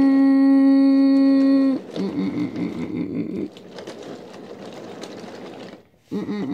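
A held horn-like tone, steady and falling slightly in pitch, stops about two seconds in. A rattling clatter follows, dropping lower after a while and cutting out briefly near the end.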